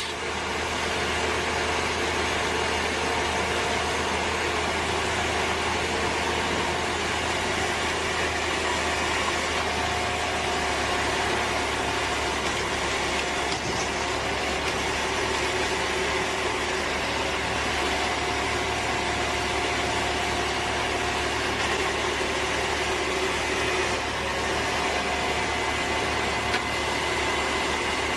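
An engine running steadily: a continuous mechanical drone with a few steady tones through it and no sharp knocks or impacts.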